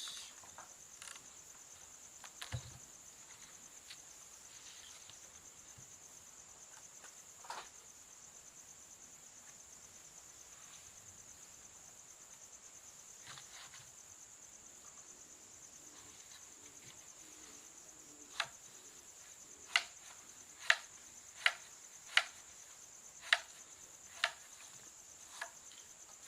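Steady high-pitched chirring of crickets in the night. In the last third a series of sharp clicks, roughly one a second, is the loudest sound.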